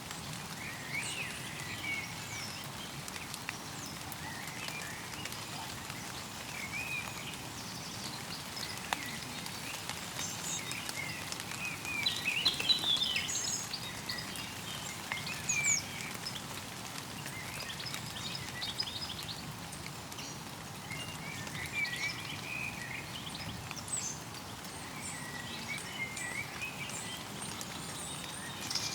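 Stream water flowing steadily, with small birds chirping and calling over it throughout; the bird calls are loudest about twelve and fifteen seconds in.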